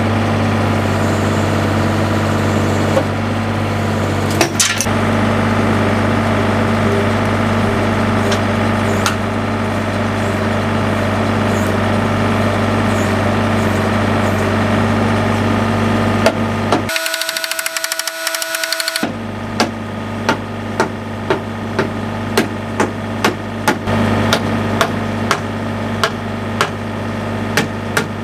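An engine running steadily. From about two-thirds of the way in, a regular run of sharp knocks, roughly one and a half to two a second, joins it.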